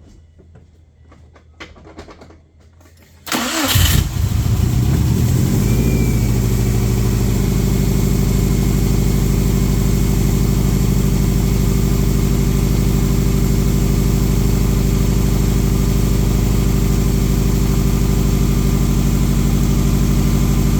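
Subaru WRX/STI turbocharged flat-four engine started: a brief crank about three seconds in, catching at once, then settling within a few seconds into a steady idle. It is a restart after an up-pipe install, to check the new up-pipe and turbo oil line for leaks.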